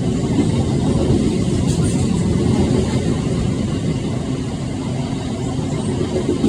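Freight train passing, a loud, steady low rumble that neither rises nor falls.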